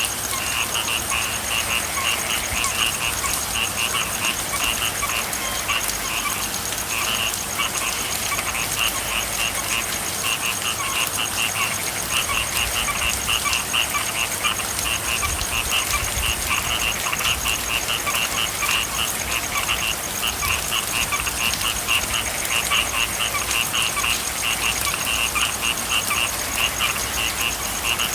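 A chorus of frogs calling continuously in rapid, pulsed croaks over a steady hiss of rain.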